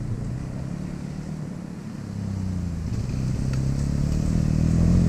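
Off-road engine, a dirt bike or ATV, running and getting steadily louder and higher in pitch from about two seconds in as it accelerates toward the jump.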